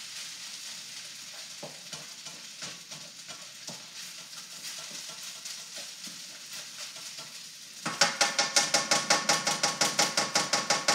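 Rice frying with a steady sizzle in a hot wok, stirred with a metal spatula, the rice starting to crisp. About eight seconds in, a loud, rapid run of metallic clanks with a ringing tone, about ten a second, as the spatula strikes the wok.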